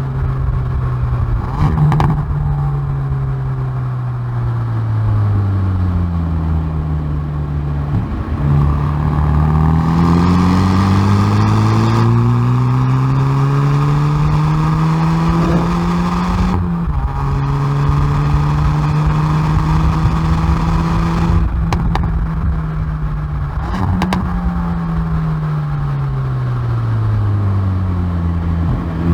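Hyundai i30N Performance's turbocharged four-cylinder exhaust at track pace, heard from the rear bumper: revs falling under braking, then climbing hard for several seconds through the gear. After a gear change it holds steady, then the revs fall again near the end and start to rise. A few sharp cracks come where the throttle lifts.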